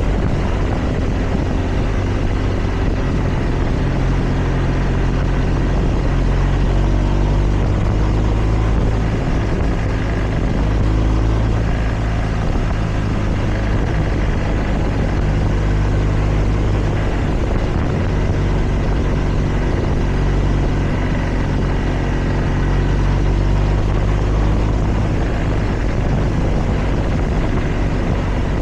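Motorcycle engine running steadily under way, its pitch rising and falling a few times, over a continuous rush of wind noise.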